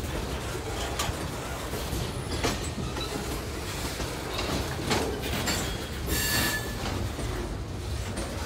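Freight train cars rolling past with a steady rumble, their wheels knocking now and then over the rail joints. There is a brief high-pitched wheel squeal about six seconds in.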